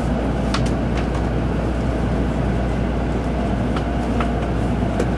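Interior running noise of a Tōkaidō Shinkansen train heard from a passenger seat: a steady low rumble with a few light clicks.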